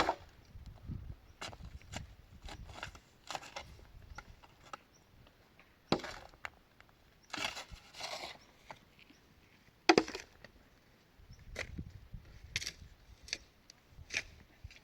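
Irregular wooden knocks and clatter of boards being handled or struck. Three sharp impacts stand out: one at the start, one about six seconds in and one about ten seconds in, with scattered lighter knocks between them.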